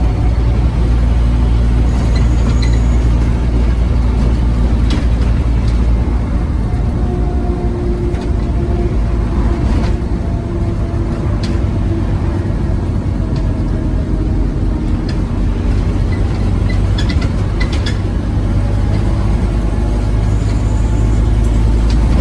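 Scania OmniCity bus's diesel engine running under way, heard from inside the saloon, with a steady low drone and scattered rattles and clicks. A faint whine rises and falls in the middle as the bus changes speed.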